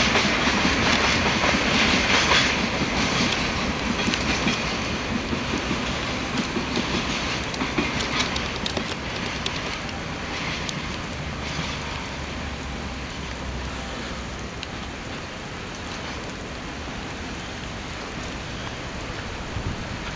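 Freight train wagons rolling along the track, wheels clattering over the rail joints, the sound slowly fading.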